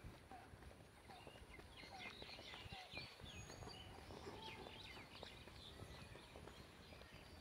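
Birds chirping faintly over quiet outdoor ambience: a short chirp repeats every half second or so, and a busier run of higher chirps comes in the middle.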